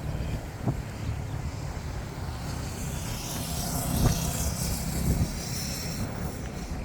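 Outdoor ambience of a walk: a steady low rumble with a hiss that swells midway and a couple of soft thumps.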